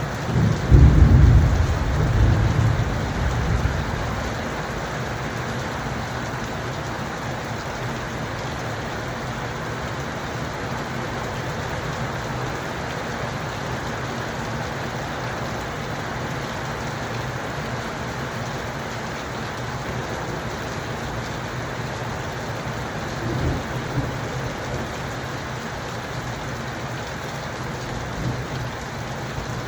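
Steady rain falling, with a deep rumble of thunder about a second in that fades over a few seconds. Two fainter rumbles come later.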